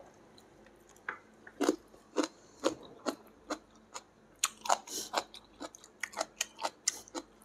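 A person chewing a mouthful of steamed chicken close to the microphone: short wet mouth clicks and smacks, starting about a second in at a couple a second and coming faster after about four and a half seconds.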